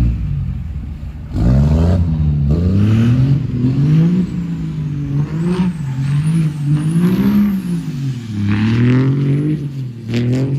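Truck engine revving hard over and over, its pitch rising and falling in about half a dozen surges, with a faint high whine that follows the revs.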